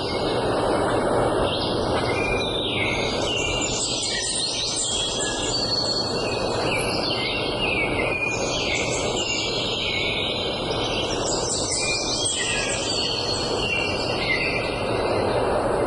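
Several songbirds singing at once, a dense chorus of overlapping chirps, trills and whistles, over a steady rushing background noise.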